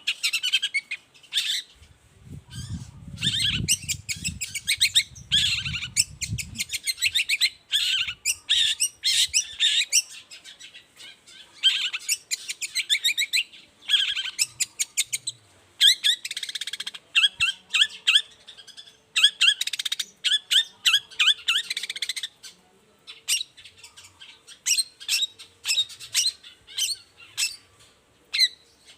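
Long-tailed shrike (cendet) singing: rapid runs of sharp, chattering notes in bursts separated by short pauses. A low rumble sits under the song for a few seconds near the start.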